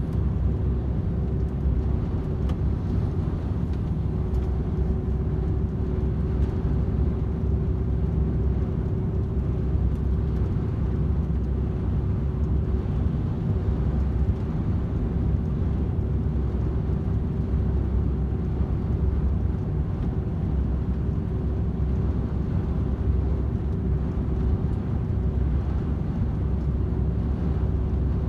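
DAF XF 510 truck cruising steadily at motorway speed: the drone of its PACCAR MX-13 straight-six diesel and tyre and road noise, with a steady humming tone, constant throughout.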